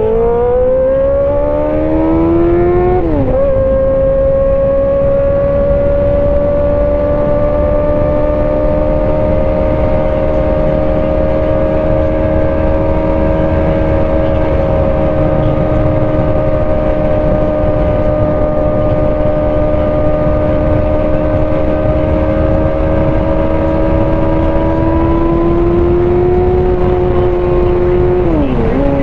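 Sport motorcycle engine pulling up through the revs, shifting up at about three seconds, then running at a steady cruising pitch that climbs again near the end before another upshift. Wind rush is heavy throughout.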